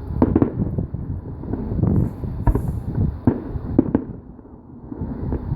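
Aerial fireworks going off: a run of sharp bangs and cracks, several in quick succession, over a continuous low rumble of bursting shells.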